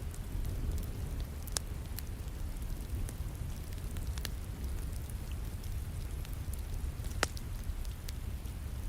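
Steady rain with a low rumble underneath, and a wood fire crackling now and then: a few sharp pops, the loudest about seven seconds in.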